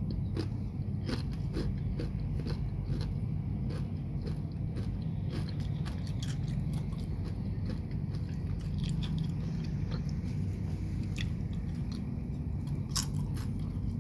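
Someone chewing crunchy keripik chips close to the microphone, a rapid irregular run of crisp crunches, over a steady low rumble.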